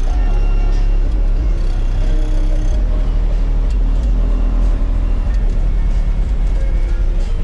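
Car audio system playing a rap song at high volume, with heavy, pounding bass from two Resilient Sounds Platinum 15-inch subwoofers in the trunk.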